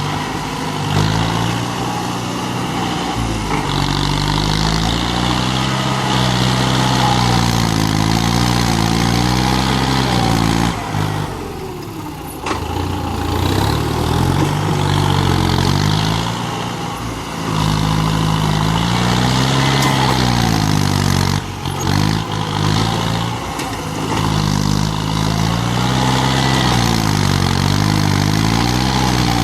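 Kubota tractor engine running hard, its speed rising and falling in repeated swells every few seconds, with a brief drop in sound about a third of the way through and again about two-thirds through.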